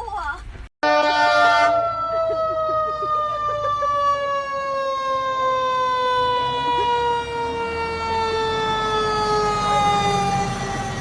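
A siren winding down: one long unbroken tone that slides slowly and steadily lower in pitch.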